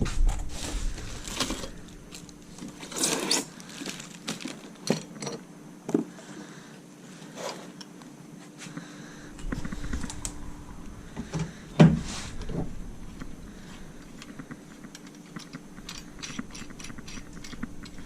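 Scattered knocks, clicks and rattles of parts and tools being moved and handled, with a longer scrape about three seconds in and a sharp knock about twelve seconds in.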